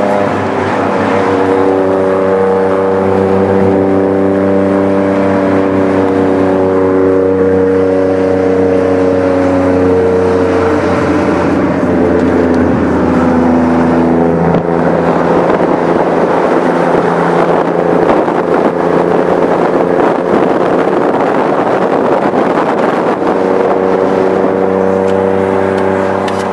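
Car engine and exhaust heard from inside the cabin while driving at highway speed: a loud, steady engine note that shifts in pitch a few times, over road noise.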